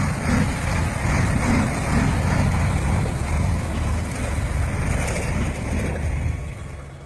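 Heavy truck driving, its engine and running gear giving a steady low rumble that fades away near the end.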